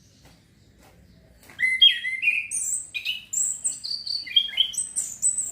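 Young male orange-headed thrush singing: after a quiet start, about a second and a half in it breaks into a quick, varied run of high whistles and chirps, the practice song of a young bird.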